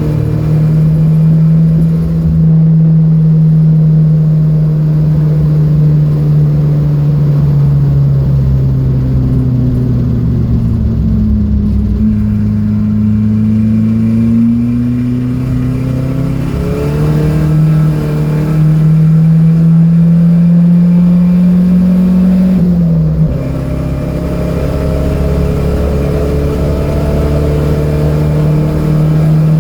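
Datsun B210's four-cylinder engine running hard on track. The engine note sags slowly, then climbs steadily under acceleration, drops sharply once about 23 seconds in, and then holds steady.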